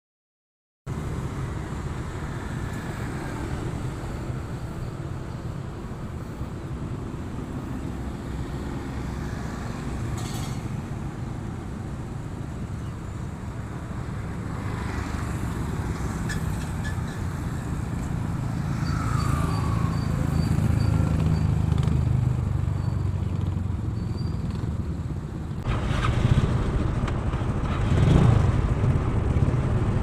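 Motor vehicle on the road: a steady engine and road rumble that grows gradually louder, with a louder surge near the end.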